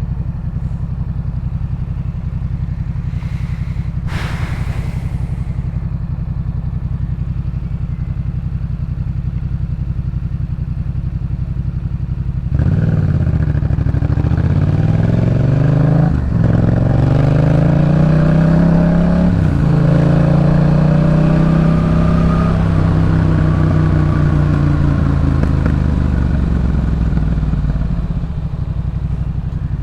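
Yamaha MT-07 parallel-twin engine through a Jeskap K4 full exhaust, running steadily, then accelerating hard from about twelve seconds in. The pitch climbs with two brief breaks for upshifts, then eases off and falls back to a steady note near the end.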